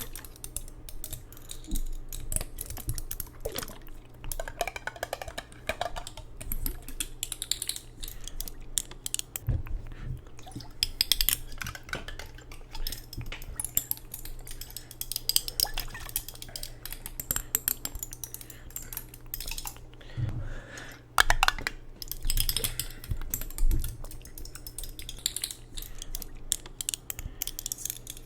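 Close-miked ASMR tapping and handling of hard objects, such as jars: rapid, irregular taps, clicks and clatters, with a few louder clacks in the last third.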